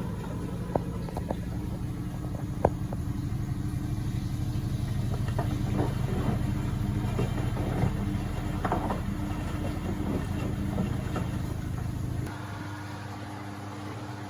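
Beko WMB71642W washing machine between final rinse and final spin: a steady pump-like hum with small gurgles and clicks, typical of the machine draining the rinse water. About twelve seconds in the hum drops away and a quieter running sound takes over as the machine moves into the final spin.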